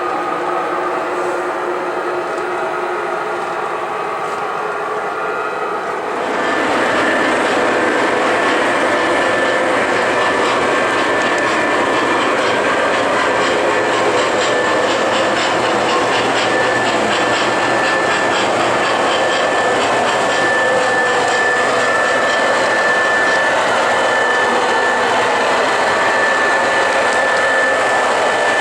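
O scale model train running on the layout: motor, wheels on track and the locomotive's electronic sound. It jumps louder about six seconds in and then carries on steadily with a fast ticking and a steady high tone.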